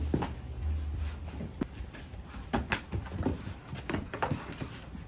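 Irregular knocks and clicks of things being handled or moved, with a low hum that fades after about a second and a half.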